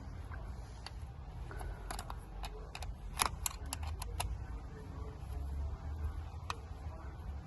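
Nylon cable tie being pulled tight by hand, its ratchet giving a quick, irregular run of sharp plastic clicks over about two seconds, then one more click a couple of seconds later. A low steady hum runs underneath.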